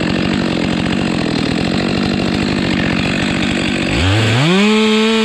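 Petrol chainsaw idling with a rapid steady putter, then revved up about four seconds in, its pitch rising quickly to a steady high whine that it holds to the end.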